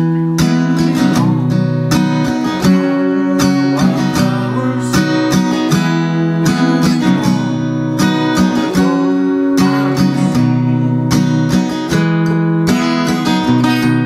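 Seagull Coastline S6 Burst GT-QI acoustic guitar strummed in a steady rhythm, chords changing every second or two, heard through its built-in pickup and a Fender KXR 60 amp.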